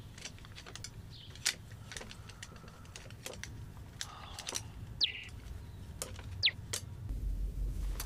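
A caged bird giving two short chirps that slide quickly downward in pitch, a little past the middle, among scattered light clicks and taps.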